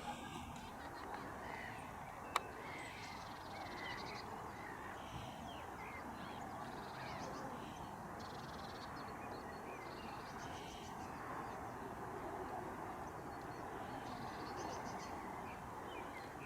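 Ducks and geese calling, many short overlapping calls over a steady background hiss, with one sharp click about two seconds in.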